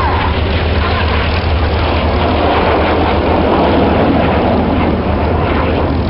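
Loud, steady rushing noise of a display aircraft's engines as it flies past, swelling slightly midway.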